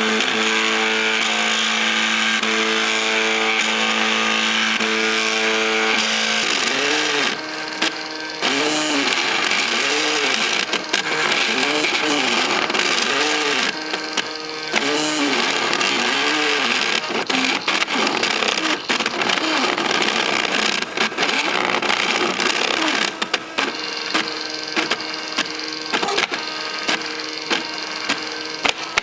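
MakerBot 3D printer's stepper motors whining at shifting pitches as the print head moves. For about six seconds they hold steady tones that change in steps, then they sweep up and down in pitch over and over, about once a second, over a steady hiss.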